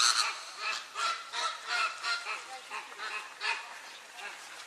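A flock of flamingos honking, many calls overlapping in a dense chorus.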